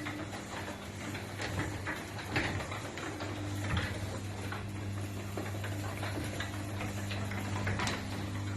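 New BFT Botticelli garage door opener running quietly as it lowers the door: a steady low motor hum with irregular light ticks and clicks from the moving door.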